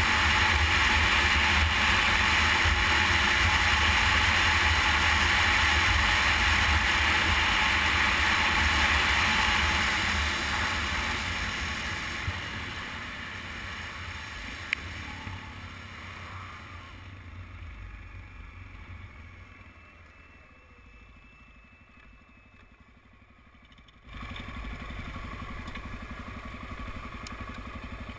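Motorcycle riding heard through a helmet-mounted camera, with rushing wind and engine noise. The sound is loud at first, dies down gradually from about ten seconds in, and changes suddenly near the end.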